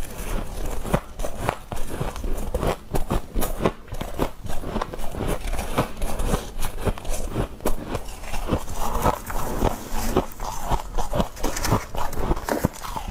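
Mouthfuls of humidifier frost being bitten and chewed close up: a dense, irregular run of crisp crunches and crackles.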